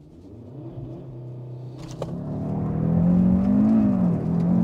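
Cupra Formentor VZ5's 2.5-litre turbocharged five-cylinder engine, heard from inside the cabin, accelerating hard from a launch-control start. The engine grows steadily louder and rises in pitch, with a brief dip about four seconds in as it shifts up a gear.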